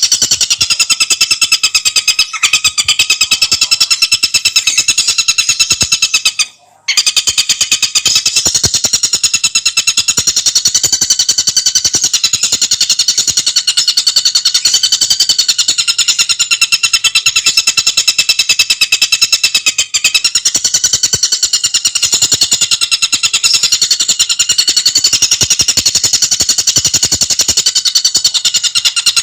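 Tengkek buto bird singing in a fast, unbroken stream of rapid, tightly packed notes, with a brief break about seven seconds in.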